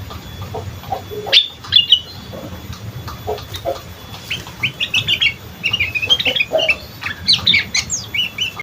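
Sooty-headed bulbul (kutilang) chattering its rapid 'ngriwik' twitter: strings of short, high chirps that grow busier and more continuous about halfway through.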